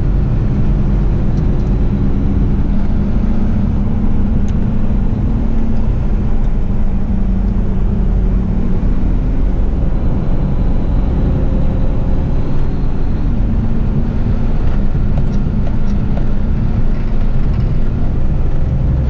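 Diesel engine of an eight-wheel twin-steer front-lift garbage truck running steadily, heard from inside the cab, its pitch shifting a few times.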